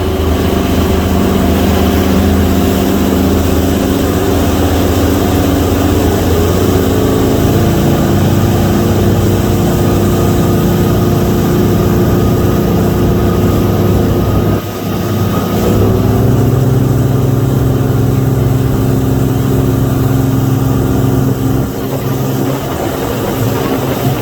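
Motorboat engine running steadily under way while towing a tube, its pitch shifting a couple of times, with a brief dip in level about 15 seconds in.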